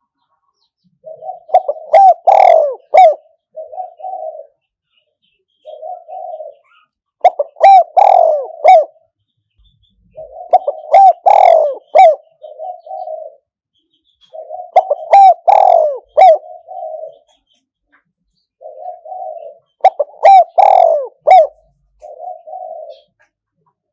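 Spotted dove cooing its repeated song: five phrases about four to five seconds apart. Each phrase is a soft opening coo, then a few loud coos, then a short closing coo. The loud notes are strong enough to distort.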